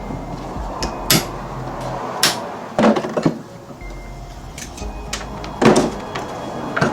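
Hand tools clanking and knocking on metal while U-joints are being removed from a driveshaft: a few sharp, separate strikes with a brief metallic ring, the loudest a little after two seconds in and near the end.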